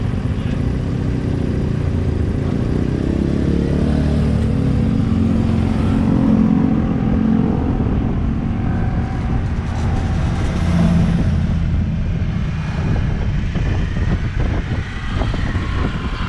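Engine and running noise of a tram car heard while riding aboard it: a steady low rumble that swells a couple of times as the engine pulls harder.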